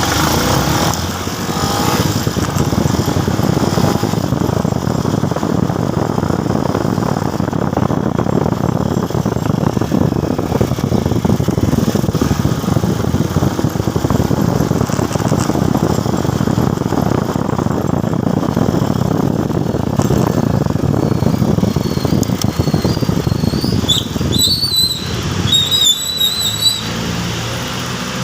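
Motorcycle running at road speed on a ride, a steady dense rumble throughout. Near the end there is a brief wavering high-pitched squeal.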